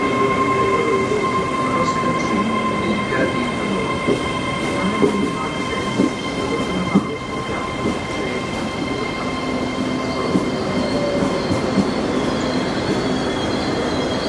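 Passenger train rolling slowly into the platform round a curve, with a steady high-pitched wheel squeal over the low rumble of the train and a few knocks from the track. A higher squeal joins about two-thirds of the way in as it draws closer.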